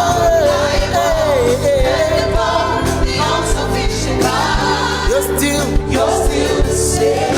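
Gospel praise song: voices singing over band accompaniment, with a lead voice singing a wavering, ornamented line through the first two seconds.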